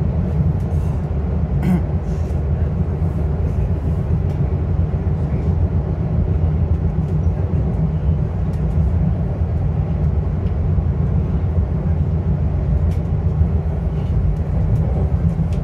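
Steady low rumble inside a commuter train car, with a few faint clicks.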